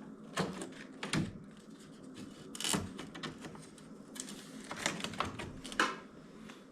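Irregular clicks and knocks, about six spread across a few seconds, from plastic car trim and its clips being handled and worked loose.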